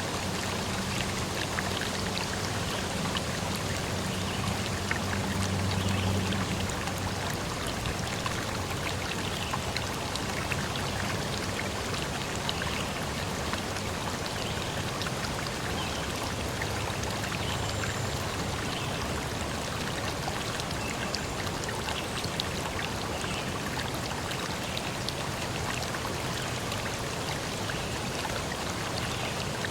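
Steady rushing water, an even unbroken wash of sound, with a low rumble that swells over the first six seconds or so and then fades.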